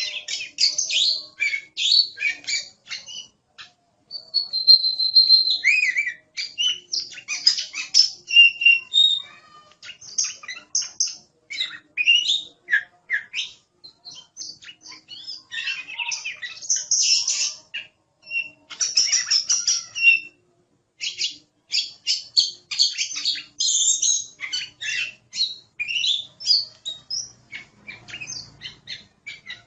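Oriental magpie-robin (kacer) singing vigorously: a fast, varied stream of chirps, trills and clear whistles with only brief pauses, including one held whistle early on.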